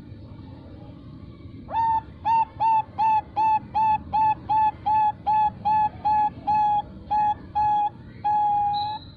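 Zebra dove of the Bangkok song strain (perkutut bangkok), a female, giving its cooing song: about sixteen short, evenly spaced notes at roughly three a second. The song ends in one long held note, the prized 'long ending' (ujung panjang).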